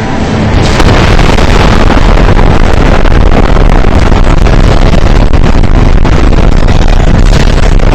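Very loud, heavily distorted rushing noise that swells up over the first second and then holds steady at full volume.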